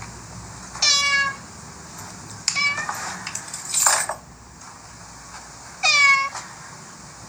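A cat meows three times, each a short high-pitched call of about half a second, spaced over several seconds. A brief noisy burst comes between the second and third meows.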